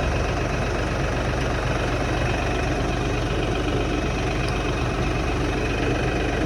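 LS tractor's diesel engine idling steadily.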